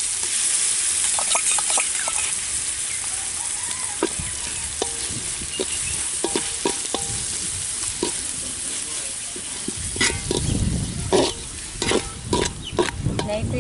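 Onions, tomatoes and ginger-garlic paste sizzling in oil in a large metal pot, with a steel slotted ladle scraping and knocking against the pot as the masala is stirred. The stirring gets louder and busier about ten seconds in.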